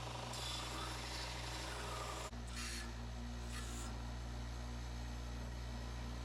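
Steady motor drone with short bursts of scratchy hiss, one lasting about two seconds and two brief ones near the middle: wire-brushing the hardened-steel combine sickle sections.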